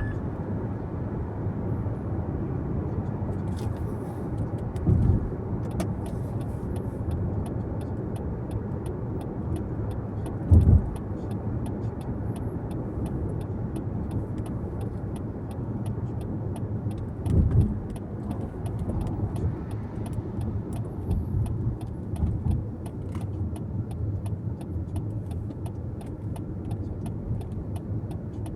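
Car driving at speed, heard from inside the cabin: a steady rumble of road and tyre noise, with a few short low thumps spread through it.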